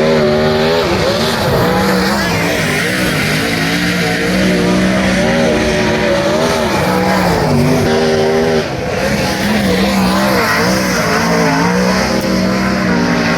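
Several sprint car engines racing on a dirt oval, their pitch rising and falling as the cars accelerate and back off through the corners.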